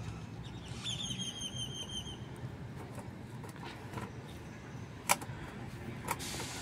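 A steady low background rumble, with a short, fast bird trill of quick repeated high notes about a second in and a single sharp click about five seconds in.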